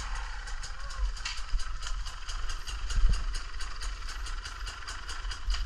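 Riding noise from a bike on a muddy trail: wind rumbling on the camera microphone over a rapid, even ticking, typical of the drive chain and knobby tyres.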